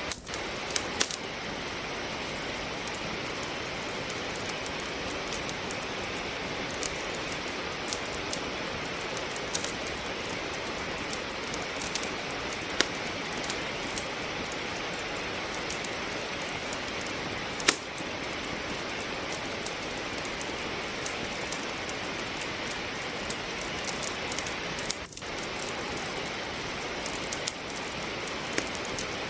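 Steady rain with a wood fire crackling in a fireplace: a constant rain hiss with scattered sharp pops from the burning logs, the loudest pop about eighteen seconds in.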